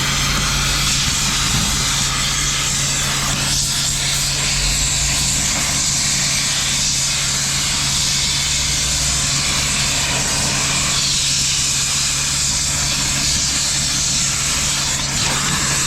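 Running machinery: a steady, loud hiss over a constant low engine hum.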